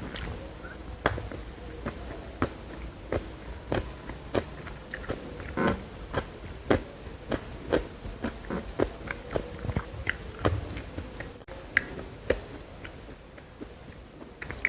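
Close-miked chewing of crunchy food, with sharp irregular crunches about one or two a second over a faint steady hum.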